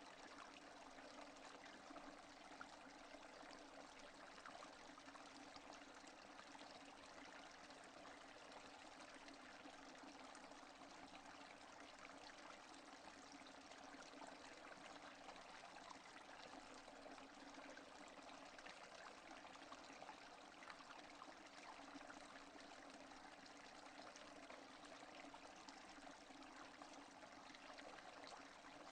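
Quiet, steady rain without thunder: an even hiss of falling water with a fine patter of individual drops, unchanging throughout.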